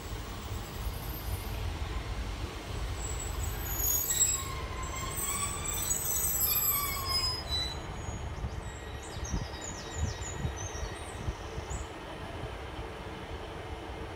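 Class 150 Sprinter diesel multiple unit running into a station and braking to a stop, its engine and wheels giving a steady low rumble. About four seconds in, several high squeals rise and fall for a few seconds as the brakes bite, followed by short high squeaks as it comes to a stand.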